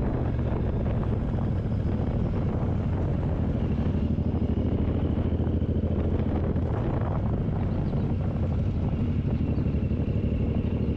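Suzuki Boulevard M109R's V-twin engine running at a steady cruise under way, with wind noise on the microphone.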